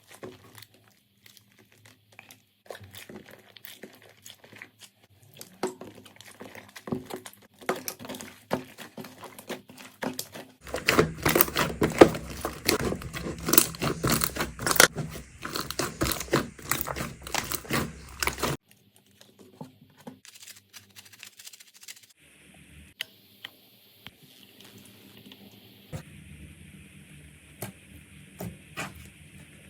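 Slime being squeezed, poked and stretched by hand, making a string of small clicks, crackles and sticky pops. A much louder, denser run of crackling comes about a third of the way in and lasts several seconds.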